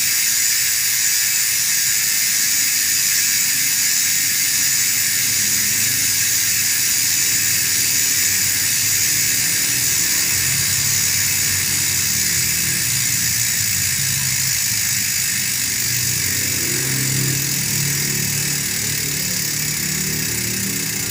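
Mountain-bike rear freehub freewheeling, its pawls clicking so fast that they merge into a steady high buzz, easing off slightly near the end.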